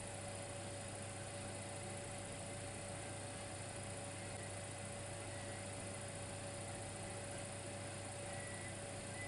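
Dimplex electric fireplace running: a steady electrical hum with a thin, constant higher tone over an even hiss.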